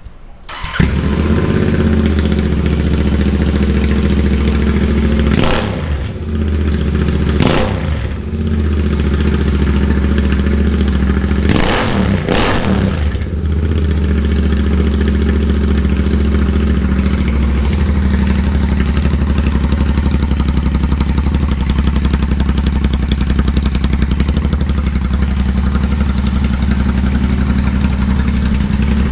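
Royal Enfield Continental GT 650's parallel-twin engine with its exhaust removed, starting just under a second in and idling loud and raw. It is blipped briefly a little after five seconds, again near seven and a half, and twice in quick succession around twelve seconds, then settles to a steady idle, revved straight after starting.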